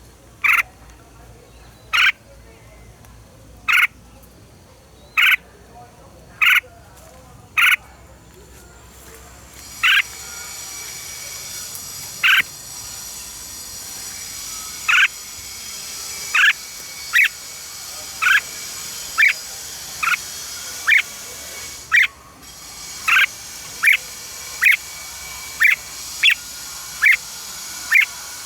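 Red-whiskered bulbul giving short, sharp call notes over and over, about one every one and a half seconds at first, then quicker, near one a second in the second half. A fainter, higher twittering of birds comes in behind it about ten seconds in.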